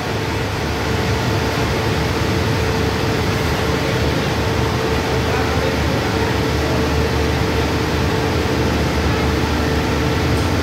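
Steady mechanical hum and whir of a passenger train standing at the platform, its engines and air-conditioning running, with a constant mid-pitched tone over it.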